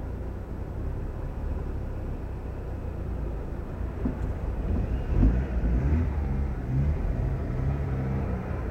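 2006 Honda Civic EX's 1.8-litre R18 engine running with road noise while driving. About halfway through, the engine note picks up and shifts in pitch as the car speeds up.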